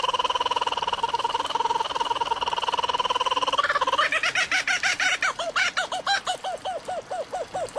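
A bird calling: a fast trill held for nearly four seconds, then a run of quick, evenly spaced chirps, about four a second.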